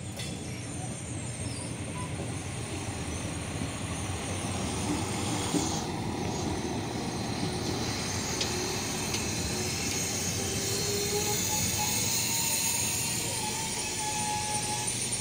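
SA134 diesel multiple unit rolling slowly past at close range, its diesel engine running and its wheels on the rails, growing louder over the first few seconds and then steady. Thin squealing tones come in late.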